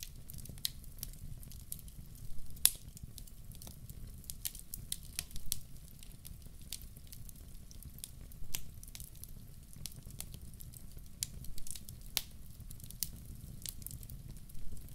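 Fireplace fire crackling: irregular sharp pops and snaps over a low steady rumble of the flames, with one louder pop about two and a half seconds in.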